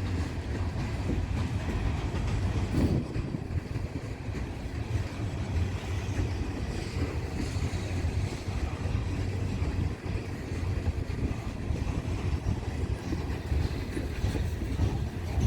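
Freight train of loaded coal cars rolling past in a steady rumble, with the wheels clicking over the rail joints.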